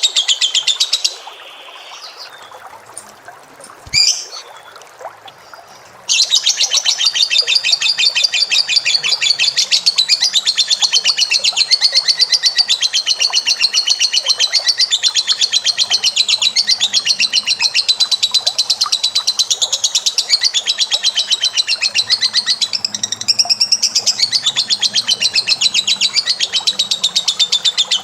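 A pet bird's fast, unbroken, high-pitched chattering trill. It stops about a second in, and after a single click it starts again about six seconds in, running on as a long trill.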